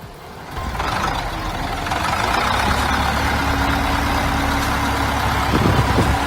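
Heavy tractor diesel engine running hard under load, coming in loudly about half a second in and holding steady with a low rumble and a steady hum.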